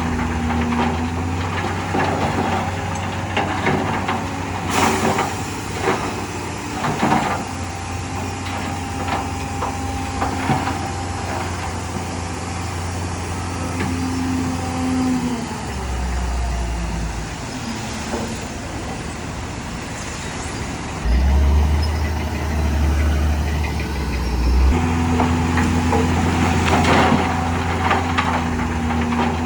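Heavy diesel earthmoving machinery running, its engine note shifting several times, with scattered metal clanks and knocks. A brief hiss comes about five seconds in.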